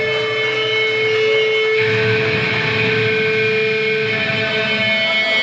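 Amplified electric guitar playing live, long held tones ringing on rather than fast riffing, with the upper notes changing about two seconds in.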